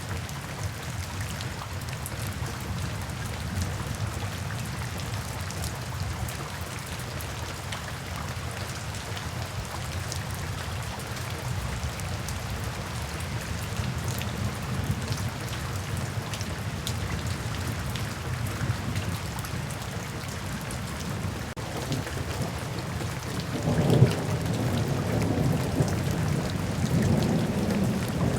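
Steady rain falling, with a low rumble beneath it; near the end a louder roll of thunder breaks in and keeps rumbling.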